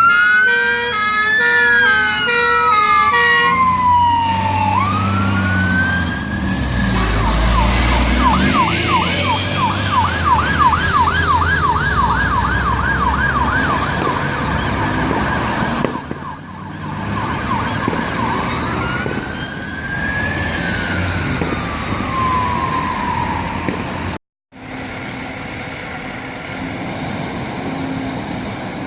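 Fire engine sirens on a turnout: a two-note hi-lo tone over a slow falling wail, then a rising wail switching to a fast yelp of about three cycles a second, then another slow rise and fall. After a brief cut near the end, only a steady engine rumble is left.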